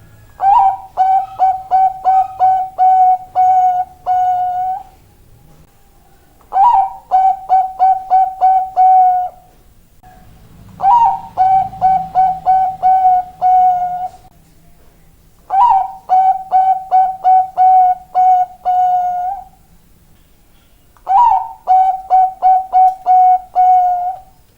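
Bangkok-strain zebra dove (perkutut) singing: five cooing phrases. Each opens on a slightly higher note and runs on for about four seconds as a fast train of short, even coos.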